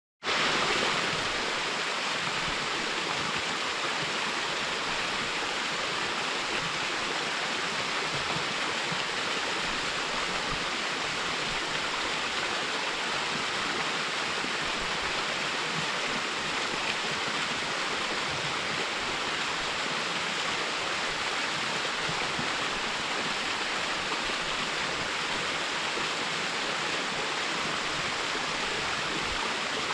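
Small mountain-stream waterfall: water falling and rushing over rocks as a steady, even hiss with no pauses.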